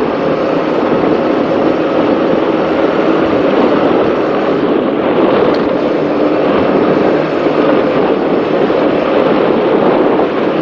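Offshore racing powerboat running flat out, heard on board: a loud, steady engine drone with a constant pitch under the rush of wind and water.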